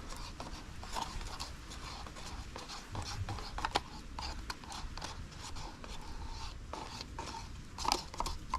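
Small irregular clicks and scraping of a stick stirring and handling two-part resin in a plastic container, over a low steady background hum.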